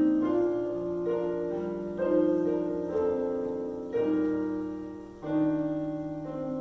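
Piano playing slow, sustained chords, a new chord struck every second or two and left to fade.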